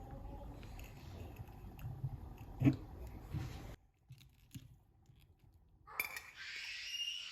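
Objects being handled, with scattered clicks and one sharp knock. The background drops off suddenly partway through, and a clatter near the end is followed by a short rustling hiss.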